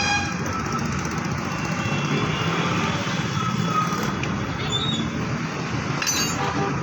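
Steady road traffic noise, with a brief vehicle horn toot near the end.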